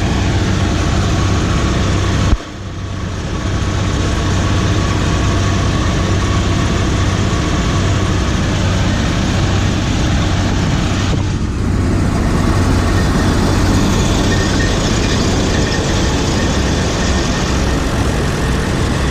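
John Deere 3300 combine running steadily while its feeder throat is plugged with crop and sticks. A sharp bump about two seconds in is followed by a brief drop in the sound.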